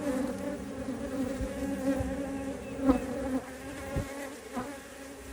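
Honeybees humming around an open hive, a steady drone, with a few light knocks about three and four seconds in.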